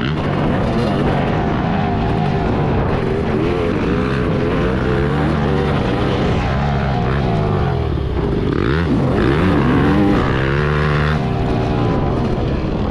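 Yamaha YZ250 two-stroke motocross bike engine revving up and falling off again and again with the throttle as it is ridden, the pitch dropping sharply and climbing back about nine seconds in.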